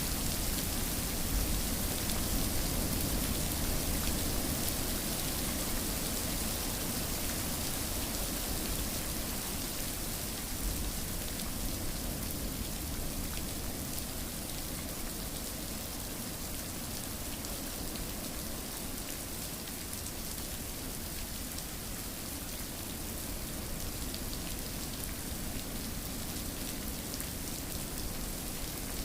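Steady, dense rainfall pattering on a surface, an even hiss with fine scattered drop ticks, easing slightly after the first few seconds.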